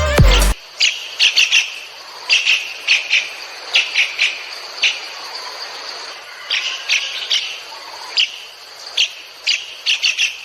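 A small bird giving short, sharp chirps, singly and in quick runs of two to four, over a faint steady hiss.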